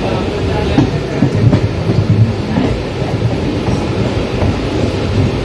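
Mumbai suburban local train running on the rails: a steady low rumble with irregular clacks of the wheels over rail joints.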